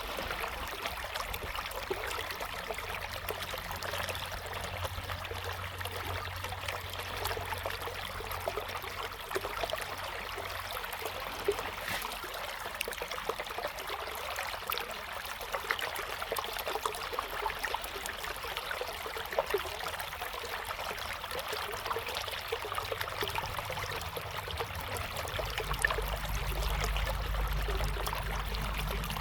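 River water flowing steadily, with a trickling, babbling sound. A low rumble joins underneath near the end.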